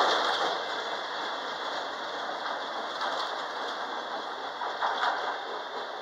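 A passing train, a steady rush of wheel and rail noise with a brief swell about five seconds in.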